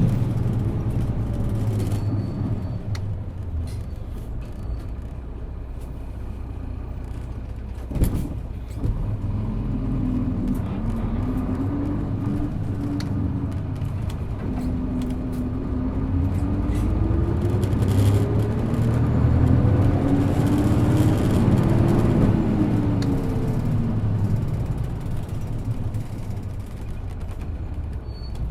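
Isuzu Erga PJ-LV234N1 city bus diesel engine running. It gives a single sharp thump about eight seconds in, then revs up as the bus accelerates, drops at a gear change, climbs again in a long rising pull, and falls away near the end as the bus eases off.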